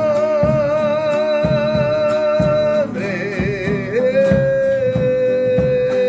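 Song: a singer holds a long note with vibrato that breaks off about three seconds in, then settles onto a second long, slightly lower note about a second later, over steadily strummed guitar.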